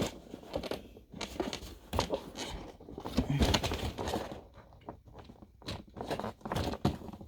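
Toy packaging being cut and pulled open with kitchen scissors: irregular snips, crunches and plastic crinkling.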